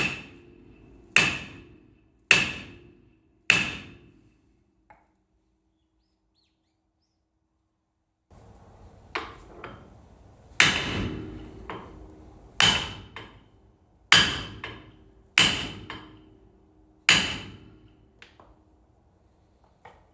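Hammer blows on steel front-end parts, each strike ringing, to drive out a seized ball joint. There are four blows about a second apart, a short break, then a second run of heavier blows.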